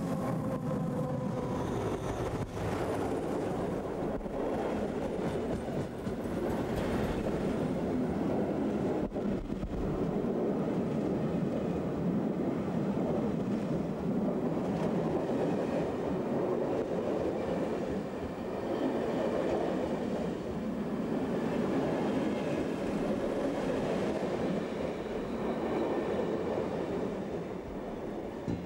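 A passenger train hauled by vintage Swiss electric locomotives passes close by, its wheels rumbling steadily on the rails as the locomotives and then the old coaches go past.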